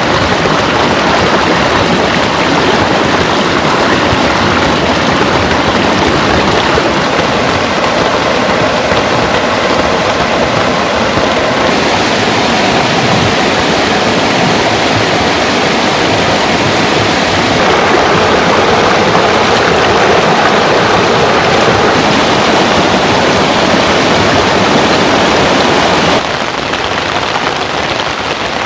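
Heavy rain with rainwater rushing, a loud steady hiss. It changes abruptly about 12 and 18 seconds in and drops somewhat near the end.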